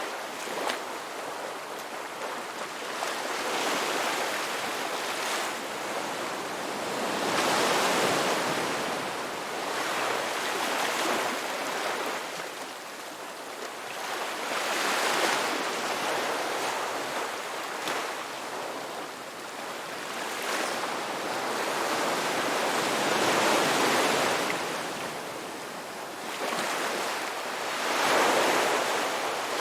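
Ocean waves breaking and washing up on a beach: a continuous rushing surf that swells and ebbs every few seconds.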